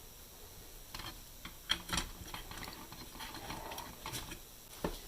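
Light clicks, taps and rustling from small radio parts being handled and fitted together by hand, with a few sharper clicks about a second in and again near the end.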